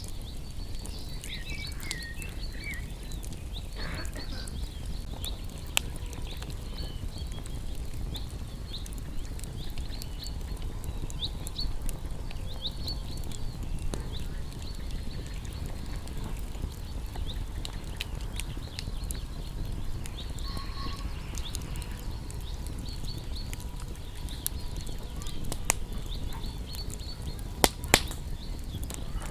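Wood bonfire crackling with scattered sharp pops, two louder ones near the end, while small birds chirp and twitter throughout in short, high calls.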